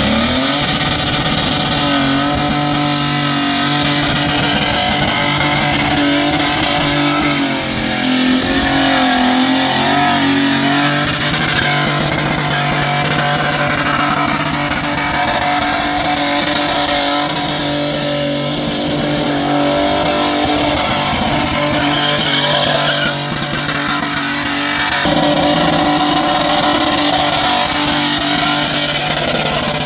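Muscle car engine held at high revs in a burnout, its rear tyres spinning and squealing, with the engine pitch staying steady and dipping briefly a couple of times.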